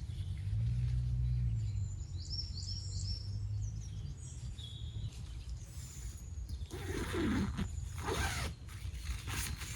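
Outdoor ambience over a low rumble: a small bird gives a quick run of short high chirps about two seconds in, and rustling noises come about seven seconds in.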